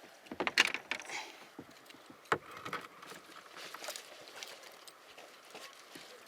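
Scattered light knocks and clicks of fishing gear being handled in a kayak, with one sharper knock about two seconds in.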